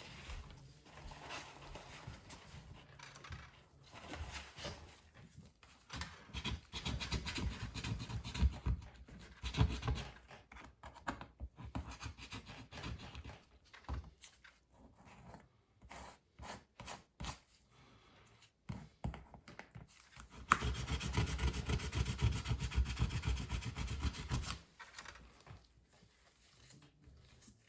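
Irregular rubbing and scraping strokes of cleaning the inside of a MacBook Pro's case where the battery sits, with a louder, steadier run of scrubbing for about four seconds late on.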